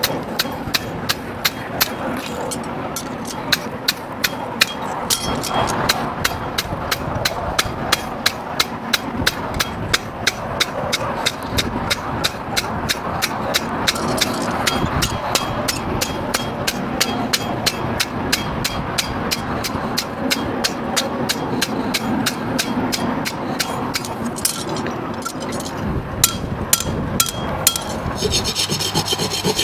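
Steady, rhythmic sharp tapping, about three strikes a second, over a continuous background noise.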